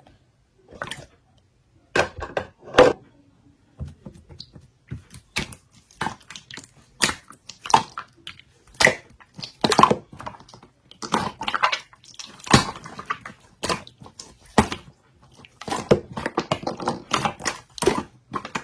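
Slime being squeezed and pressed by hand, giving irregular sticky pops and clicks, a few each second.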